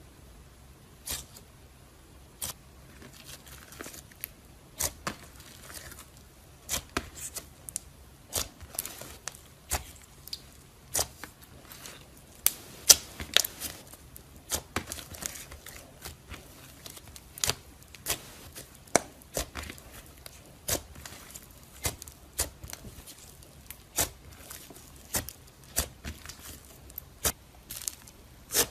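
Slime being squeezed and poked by hand, giving sharp clicking pops about once a second with faint crackling between them.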